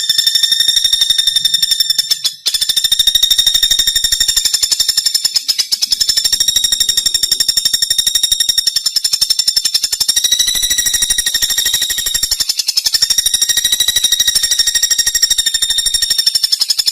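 Pelatuk bawang woodpecker calling in a long, very fast, even rattling trill on one high pitch. The trill breaks off briefly about two seconds in and again about twelve seconds in.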